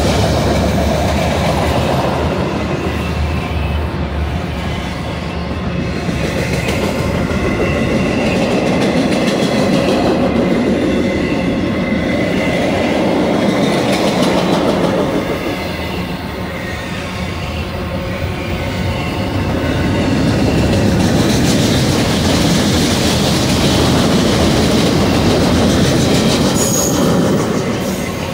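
Autorack freight cars rolling past on the mainline: a steady rumble and clatter of steel wheels on rail, with a thin high wheel squeal in the first half.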